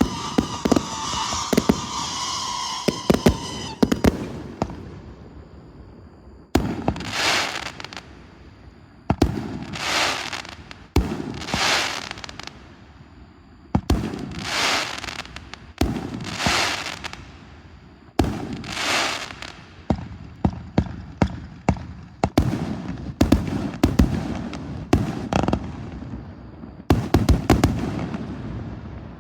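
A multi-shot consumer fireworks cake (Warlock 130) firing shot after shot. It opens with a slightly falling whistle, then gives sharp bangs, each trailed by about a second of hissing crackle. The bangs come faster and closer together over the last several seconds.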